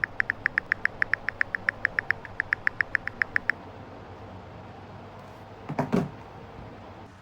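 A rapid run of short, sharp clicks, about six a second, with a brief break partway, that stops after about three and a half seconds. A single soft knock follows near the end.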